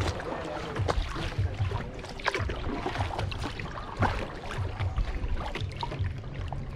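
Kayak paddling: water splashing and dripping from the paddle in many short, irregular splashes, with wind buffeting the microphone in a low rumble.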